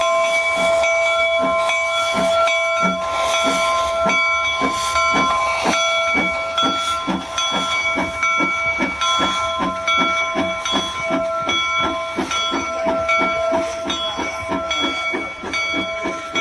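Union Pacific No. 119, a 4-4-0 steam locomotive, pulling away: its exhaust chuffs grow steadily quicker while its bell rings over and over, with steam hissing.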